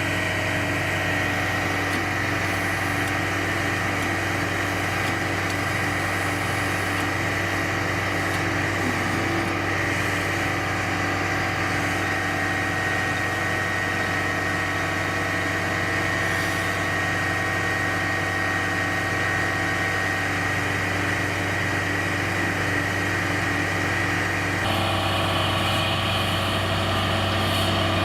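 Heavy military truck's diesel engine running steadily at idle, with a steady high whine over the hum; the sound shifts and grows slightly louder near the end.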